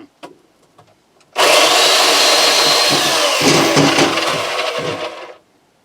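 A power saw cutting through a piece of small firewood for about four seconds. It starts suddenly, its motor pitch sags a little about halfway through as it takes the load, and then it cuts off.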